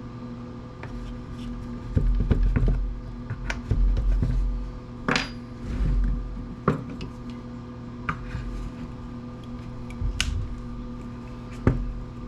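Metal parts and tools being handled on a workbench: scattered clinks and knocks, with a few heavier thumps in the first half, over a steady low hum.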